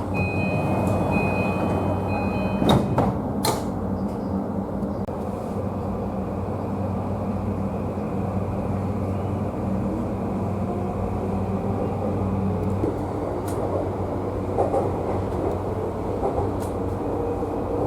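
Tokyu 3020-series electric commuter train running, with a steady rumble and motor hum. A short pattern of high electronic tones sounds in the first few seconds, and two sharp knocks follow about three seconds in.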